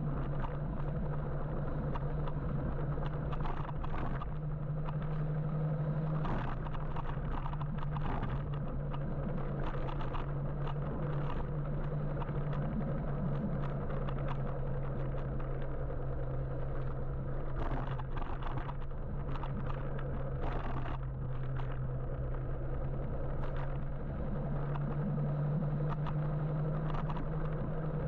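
Riding an electric motorbike in city traffic: steady road and wind noise with a constant low hum, passing car traffic and scattered light clicks and knocks.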